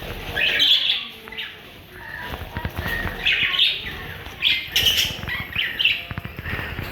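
Parrots calling in short chirps, about ten times, over soft crackling and rustling.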